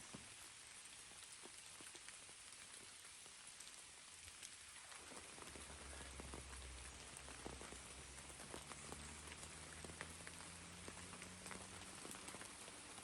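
Light rain falling, with scattered individual drops ticking sharply; about five seconds in the rain sound fills out and a faint low hum comes in underneath.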